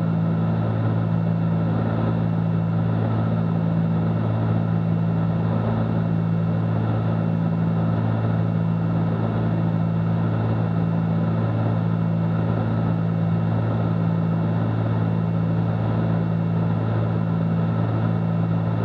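Cessna 310Q's twin piston engines and propellers droning steadily in cruise flight, heard from inside the cabin as a low, even hum with a slow regular waver.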